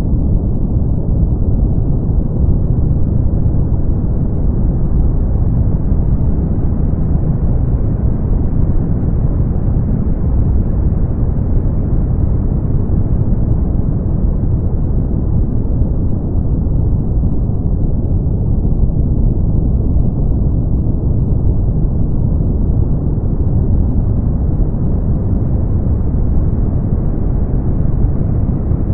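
Steady brown noise: a deep, even rumbling hiss with most of its energy in the low end and little above a few kilohertz.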